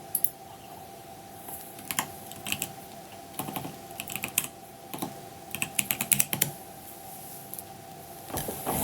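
Computer keyboard keys clicking in short clusters of a few strokes with pauses between, over a faint steady hum.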